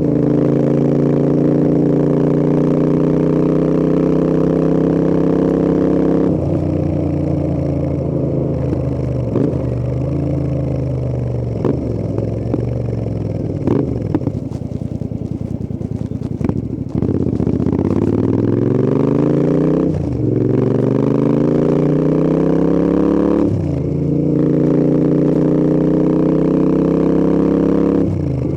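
Royal Enfield Interceptor 650's parallel-twin engine pulling steadily with rising revs. It then backs off through falling revs, with pops and crackles on the overrun. It accelerates again, the revs climbing and dropping at three upshifts.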